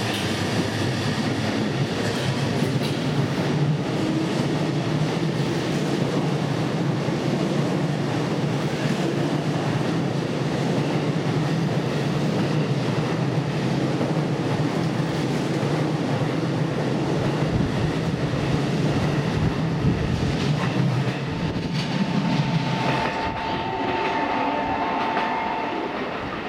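JR East E233-3000 series electric train pulling out along the platform, its cars rolling past with steady running noise and wheel clickety-clack. Near the end the sound changes, and a steady high tone comes in for a few seconds.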